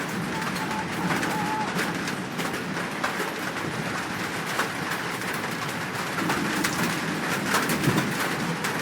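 Low cooing calls from rain birds, the notes coming more strongly near the end, over a steady hiss with scattered ticks.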